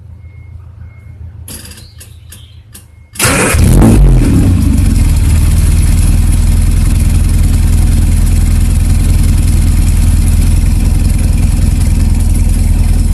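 Morris Mini Traveller's four-cylinder A-series engine started from cold. A few faint clicks come first, then the engine catches about three seconds in, revs and drops back, and settles into a loud, steady idle.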